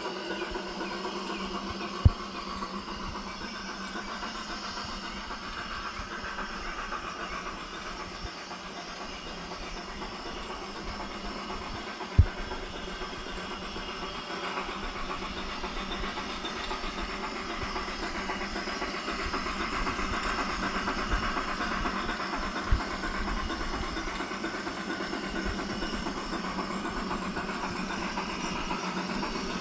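Battery-powered model train running on its track, its Blunami sound decoder playing locomotive engine sound with a steady hiss. The sound grows louder for a while past the middle as the train comes closer, and there are sharp clicks three times.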